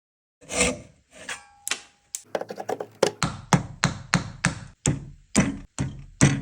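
Hand saw cutting wood: a few hesitant starting strokes, then quick, even strokes, about two to three a second.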